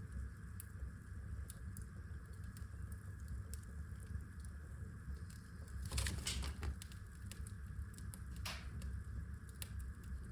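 Wood fire burning in a fireplace, crackling with scattered small pops over a low steady rumble. A louder burst of crackles comes about halfway through, and another shortly after.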